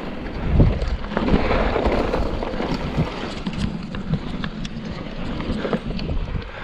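Wind buffeting the microphone, with a steady rumble and scattered short knocks and bumps.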